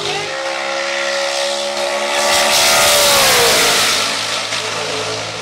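Turbocharged 4.6 L Ford V8 Mustang drag car running hard at high revs. Its engine note holds a steady pitch, grows louder, then drops in pitch about three and a half seconds in and fades as the car goes past.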